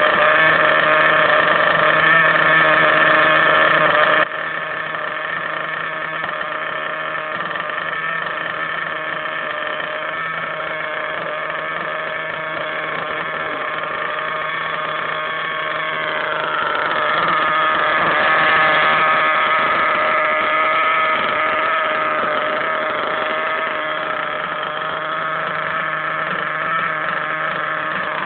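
Picco .21 two-stroke nitro engine of an RC truggy running during its break-in, a steady buzzing whine. About four seconds in it suddenly drops quieter, and a little past halfway it rises in pitch and gets louder before settling again.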